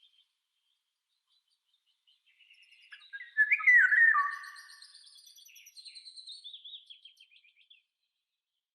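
Songbirds singing: after about two seconds of quiet, a loud burst of downward-sliding whistles comes about three and a half seconds in, followed by thinner high twittering that steps down in pitch and stops near the end.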